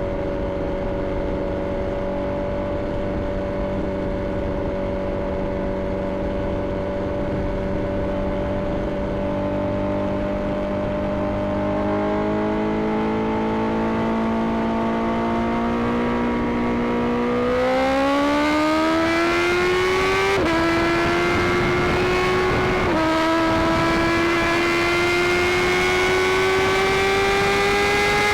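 Inline-four sport bike engine holding a steady pitch while cruising, then accelerating hard about two-thirds in, its note rising and dropping twice as it shifts up through the gears. Wind rush grows as the speed climbs.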